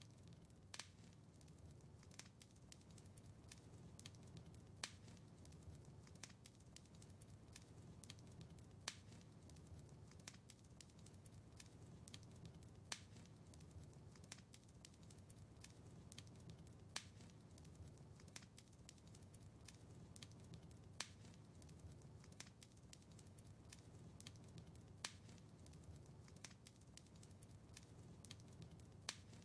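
Wood fire crackling softly in a fireplace: frequent small snaps and pops over a low rumble of burning, with a louder pop about every four seconds.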